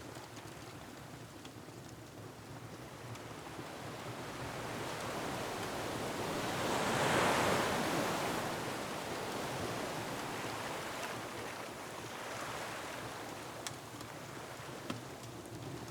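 Ocean surf breaking on a rocky shore, with wind: one wave swells to a peak about halfway through and washes back. A couple of faint crackles from a wood fire come near the end.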